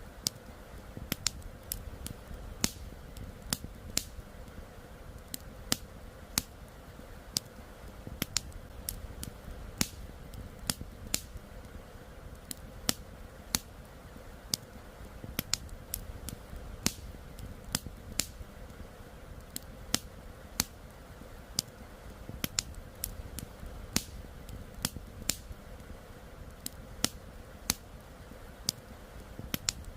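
Wood campfire crackling, with sharp irregular pops a few times a second over a steady low rush of river water.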